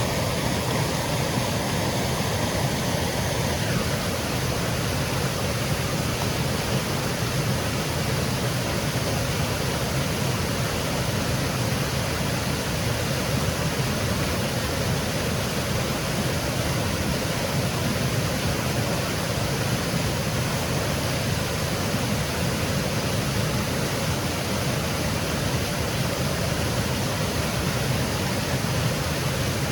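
Small woodland waterfall cascading, a steady, unbroken rush of falling water.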